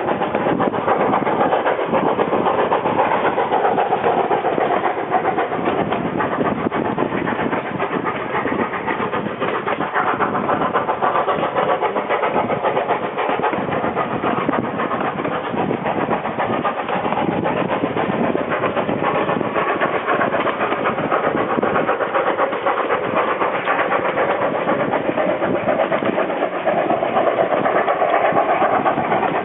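Narrow-gauge steam train of the Durango & Silverton, led by locomotive 315, running steadily along the line in a continuous loud rumble.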